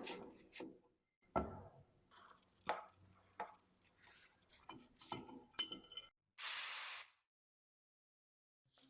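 Metal clinks and knocks from tools and parts of a rusty antique key cutting machine being handled, a run of separate sharp strikes, followed about six and a half seconds in by a short hiss lasting under a second.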